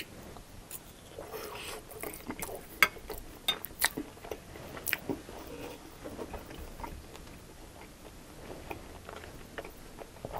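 Close-miked chewing of a mouthful of chili-topped fries: soft wet mouth sounds with sharp smacks and clicks, scattered irregularly.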